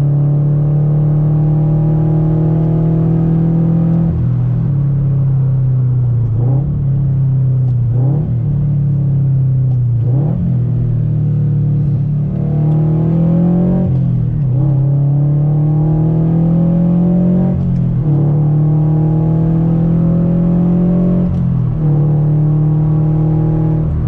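Scion FR-S's FA20 flat-four on catless Tomei headers and an ISR cat-back exhaust, heard from the driver's seat under steady driving: a deep, even drone. Its pitch climbs slowly under throttle and drops briefly about half a dozen times.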